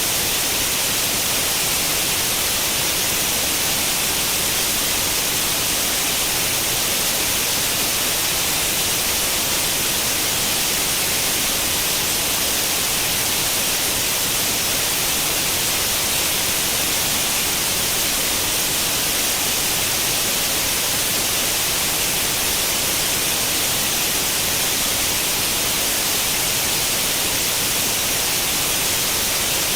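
Steady white-noise hiss imitating the static of an old tube television tuned to no channel, even and unchanging, brightest in the high frequencies.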